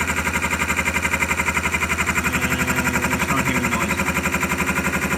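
Wood lathe spinning a wooden handle while a metalworking boring head cuts inside its bore: a steady, fast pulsing chatter at roughly a dozen beats a second. The cut sounding the same all the way across is the sign that the hole is now running true.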